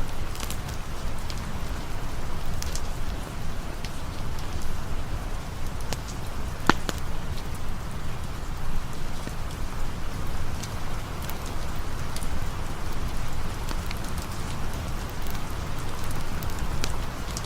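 Steady rain falling, with scattered sharp ticks and one louder pop about seven seconds in.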